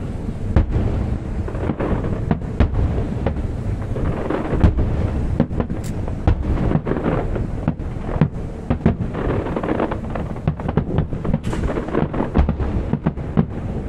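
Aerial fireworks bursting in a dense barrage: many sharp cracks and booms in quick succession over a continuous low rumble.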